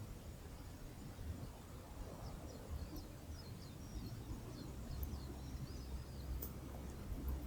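A small bird singing a quick run of short, high chirps for a few seconds, over a steady low rumble of wind or surf.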